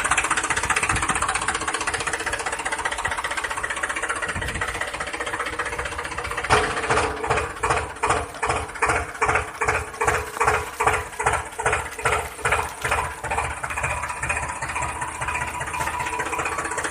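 Toy vehicle's engine sound: a steady running drone that settles into a regular chugging pulse of about two to three beats a second from around six seconds in, easing back to a steady drone near the end.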